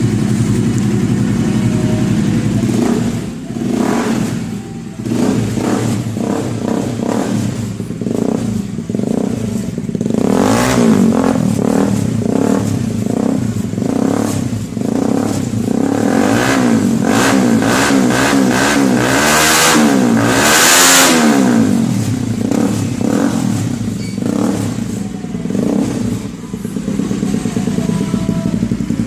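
Bajaj Pulsar AS200's single-cylinder engine running through an aftermarket sport exhaust: idling steadily, then revved in a string of throttle blips that rise and fall in pitch through the middle, then back to idle.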